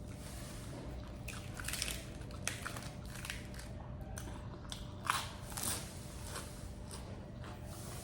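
A person eating at close range: irregular chewing and biting of a mouthful of stir-fried seafood and rice, with a few sharper bites, the loudest about five seconds in.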